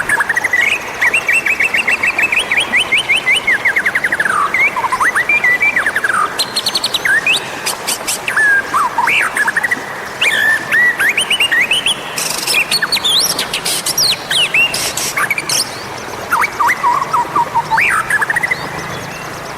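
White-rumped shama singing continuously: a varied run of whistled phrases, fast trilled note series and sharp chattering clicks, played as a tutor and calling song for wild shamas.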